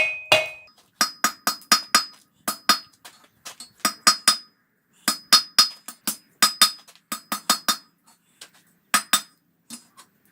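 Hand hammer striking hot 12 mm steel rebar on an anvil, drawing the bar down to a point. Quick runs of ringing blows, about four a second, with short pauses between the runs.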